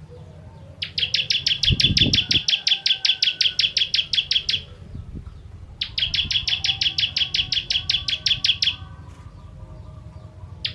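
Ciblek kristal (bar-winged prinia) singing two long, fast trills of sharp, evenly repeated high notes, about six or seven a second, with a short pause between them. A low thump comes about two seconds in.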